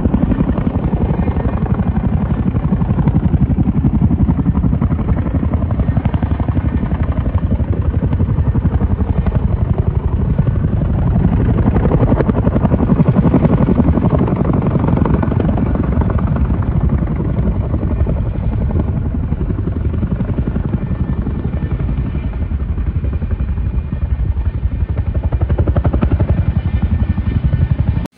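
Helicopter rotor beating steadily, with a fast, even pulse and a deep drone of engine and blades.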